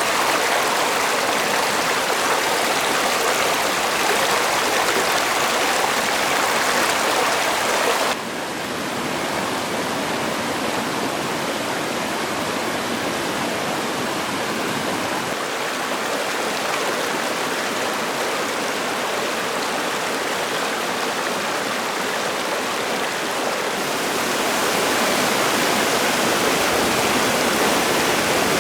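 Running water rushing steadily, with no distinct strokes or tones. Its level drops abruptly about 8 seconds in and comes back up about 24 seconds in.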